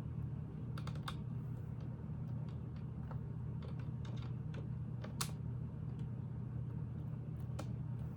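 Irregular clicks and taps of plastic Lego pieces being handled and pressed together, the loudest about five seconds in, over a steady low hum.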